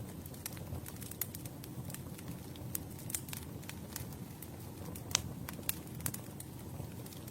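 Campfire burning steadily, wood crackling with irregular sharp pops over a low rushing flame sound; a louder pop about five seconds in.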